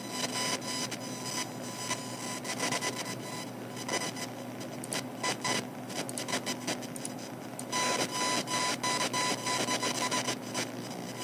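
Computer speakers giving off an irregular buzzing, crackling noise that changes with each movement of the mouse, over a faint steady hum. A steady beep comes in about eight seconds in and holds for about two seconds.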